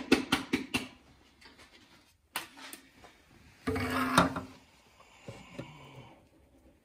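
Plastic engine air filter housing being handled and cleaned out by hand: a quick run of sharp taps in the first second, then scattered rubbing and scraping, loudest about four seconds in.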